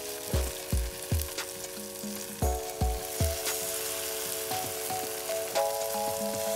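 Pancake batter sizzling as it is spooned into hot oil in a frying pan, with small pops. Under it plays background music with held chords and a deep kick drum beat.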